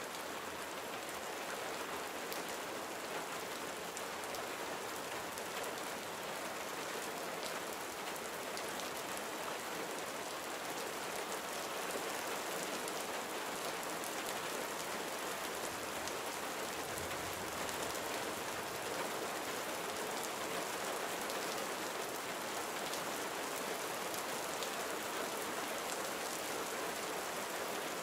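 Gentle summer rain falling steadily, a dense even hiss of drops with scattered fine patters on surfaces.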